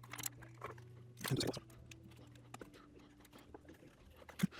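Faint scattered clicks and light scraping from small plastic parts and an antenna cable being handled inside an opened remote controller, with a brief louder cluster of handling noise a little over a second in, over a steady low hum.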